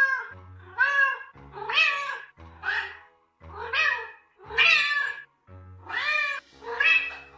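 A cat meowing over and over, about eight meows roughly a second apart, each rising then falling in pitch.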